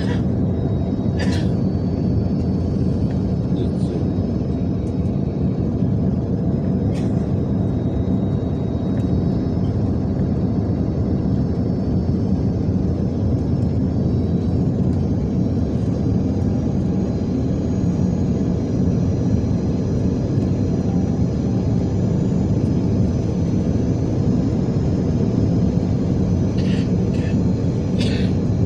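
Airliner cabin noise during final approach: the steady, loud rumble of the engines and airflow, with a faint high whine and a few brief clicks.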